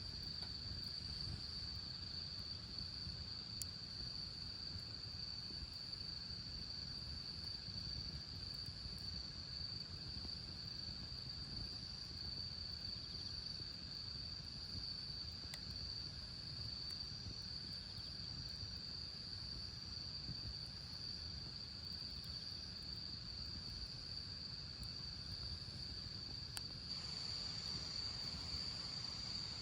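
Insects trilling steadily on one high, unbroken pitch over a low outdoor rumble, with a few faint clicks; a louder hiss joins near the end.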